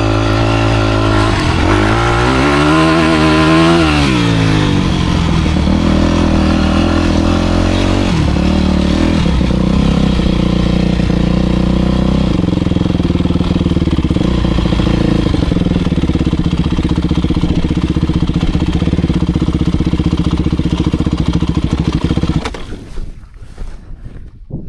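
Motocross bike engine running: the revs rise and fall a couple of seconds in, then hold fairly steady with stepwise shifts, until the engine sound cuts off abruptly near the end.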